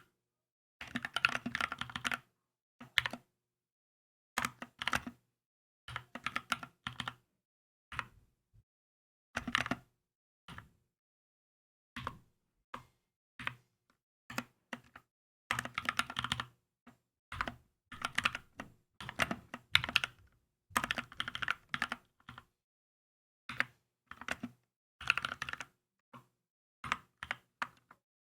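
Typing on a Keychron K2 mechanical keyboard: bursts of rapid keystrokes separated by short pauses.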